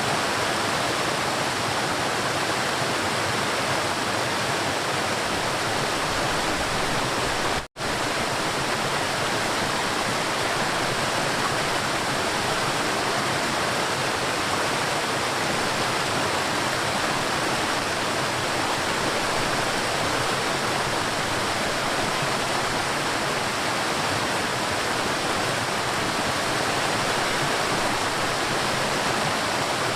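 River water flowing with a steady, even rush. The sound cuts out for a split second about eight seconds in.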